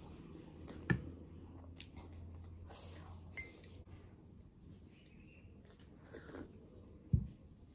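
Close-up chewing and crunching of a fried chicken pastry, with sharp clicks about a second in and midway, and a low thump near the end.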